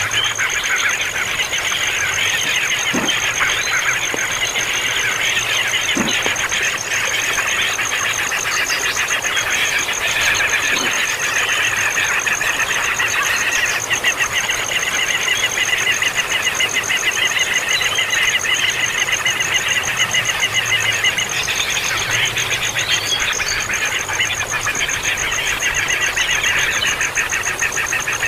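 A brood of baby birds calling noisily and without pause: a dense, rapid chatter of chick begging calls.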